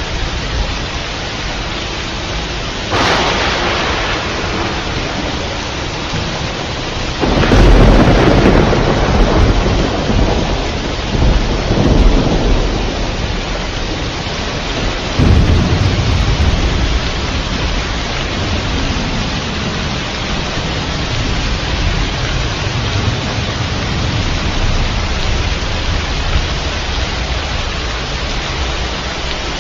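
Steady heavy rain with thunder: a sharp crack about three seconds in, a loud rolling peal from about seven seconds in that rumbles on for several seconds, and another rumble starting about halfway through.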